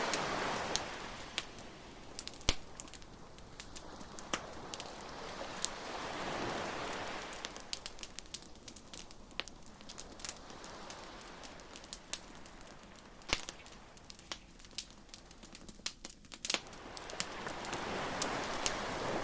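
Beach bonfire crackling, with sharp wood pops scattered irregularly. Underneath, waves wash in and draw back in slow swells, loudest near the start and again near the end.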